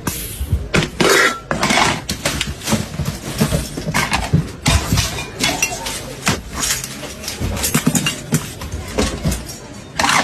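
Irregular clinks and knocks of hard objects being handled, several a second.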